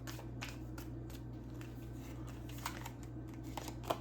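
Tarot cards being handled and shuffled: a few irregular soft snaps and slides, the sharpest near the end, over a steady low hum.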